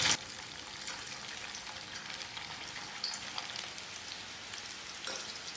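Chicken pakoda pieces frying in hot oil in a kadai on medium flame: a steady sizzle with scattered crackles and a few sharper pops.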